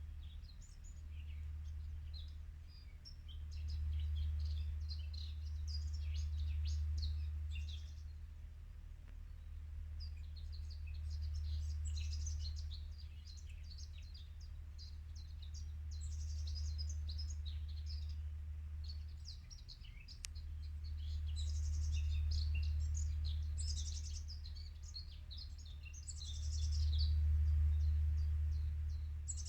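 Birds chirping in bouts of quick, high calls, over a low hum that swells and fades every few seconds.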